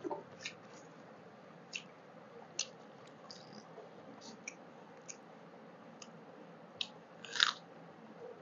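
Close-miked eating sounds: scattered soft mouth clicks and smacks of chewing rice and chicken curry, with one louder, longer smack about seven seconds in.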